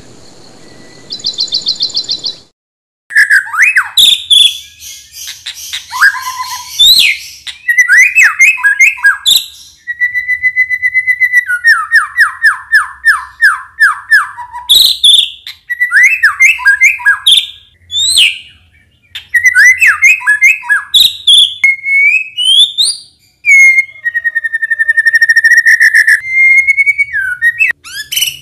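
White-rumped shama (murai batu) singing a loud, varied song of clear whistles, slurred glides and rapid trills, in short phrases with brief pauses between them.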